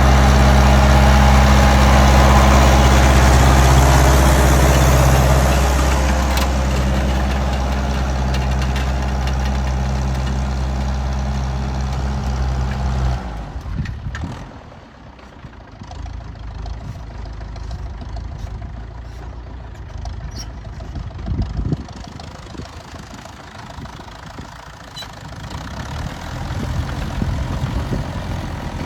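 Tractor engine running steadily, stopping abruptly about halfway through. Afterwards there is a quieter, uneven rumble with scattered clicks.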